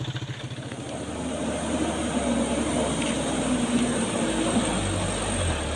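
Diesel truck engine running under load, growing louder over the first couple of seconds and then holding, with a deeper low note coming in near the end.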